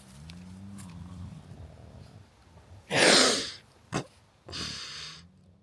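A person snoring in their sleep: a low, drawn-out snore over the first two seconds, then a loud, sharp noisy burst about three seconds in and a shorter one near the end.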